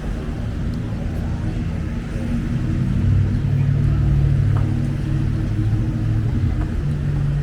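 Low engine rumble of a motor vehicle, growing louder about two and a half seconds in and easing off again a couple of seconds later.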